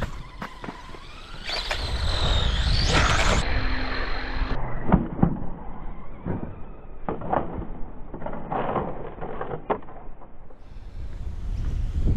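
Radio-controlled off-road buggies running on a dirt track: an electric motor whine that rises and falls, tyres rolling and scrabbling on dirt, and a series of sharp knocks and clatters from the cars bumping and landing.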